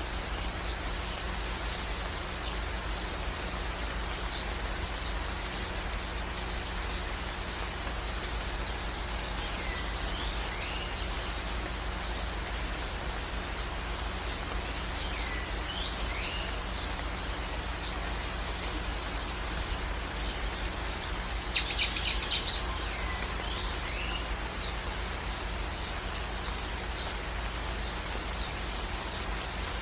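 Steady hiss of falling or running water, with scattered short sweeping bird calls. A little past two-thirds of the way through, a bird gives a brief, loud burst of rapid repeated notes.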